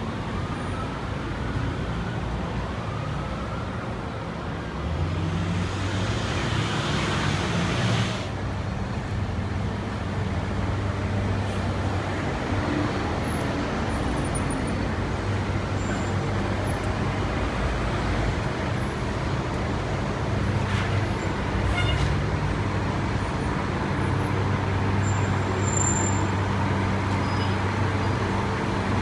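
City street traffic: a steady roar of cars and the low hum of engines, with a louder rush of hiss that swells and cuts off abruptly about eight seconds in.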